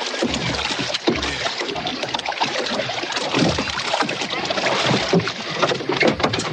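Water splashing and sloshing around a small boat, with irregular knocks and splashes.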